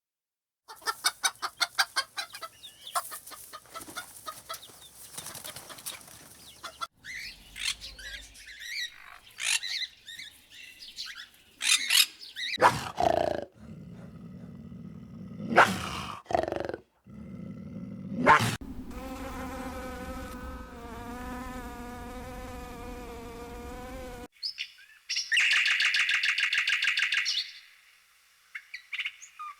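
A string of different bird and animal sounds, one after another: a fast run of flapping or clicking for the first few seconds, then assorted calls, a long wavering call in the second half, and a loud buzzy call near the end.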